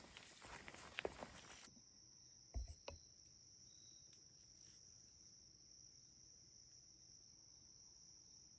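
Faint rustling for the first second and a half. After an abrupt change it becomes a steady, high evening insect drone of crickets, with two soft thumps close together about two and a half seconds in.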